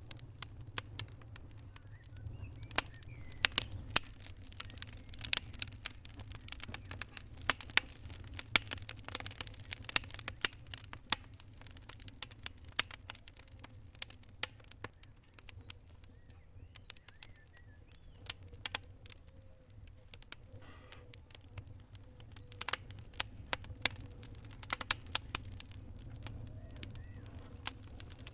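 Wood fire crackling: irregular sharp pops and snaps, often several a second, over a low steady rumble of the flames. The pops thin out for a few seconds past the middle, then pick up again.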